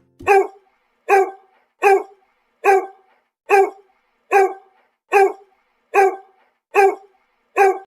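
A dog barking: ten single, short barks, evenly spaced at a little more than one a second and all alike.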